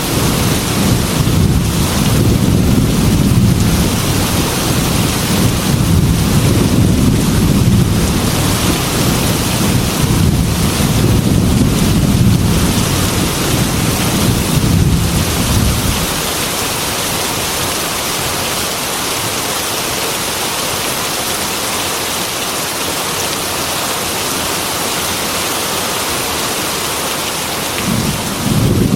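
Heavy rain with low rolling thunder rumbling under it; about halfway the thunder fades out, leaving the steady hiss of the downpour, and the rumble starts to return near the end.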